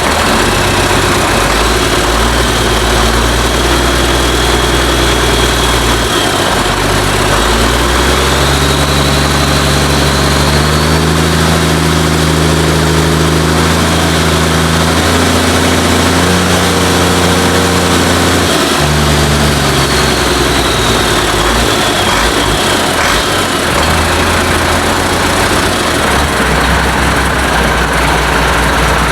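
International DT466 inline-six diesel engine running on its first cold start after being rebuilt, its speed raised in steps to a higher speed in the middle, then brought back down toward idle. It runs without any knocks that the owner can hear.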